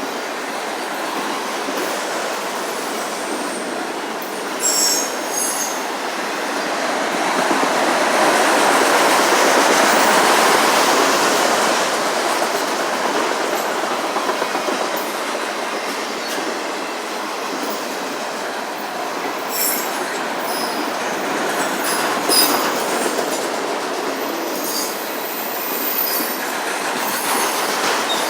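Autorack freight cars rolling past on the rails: a steady rumbling rattle of wheels on track that swells to its loudest around ten seconds in, with brief high wheel squeals about five seconds in and several more from about twenty seconds on.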